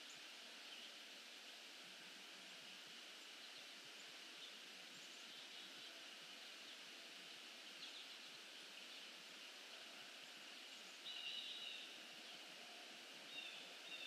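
Faint, sparse bird calls over a steady outdoor hiss: a few short calls scattered through, the clearest a brief burst of calls about eleven seconds in and another near the end.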